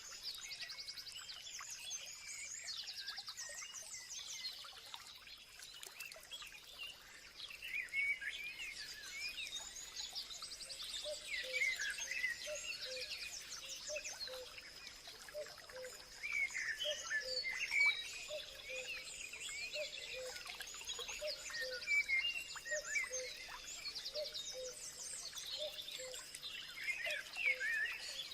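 Several birds chirping and singing together in overlapping calls and trills, over a steady thin high-pitched tone. From about halfway on, a low note repeats at an even pace beneath them.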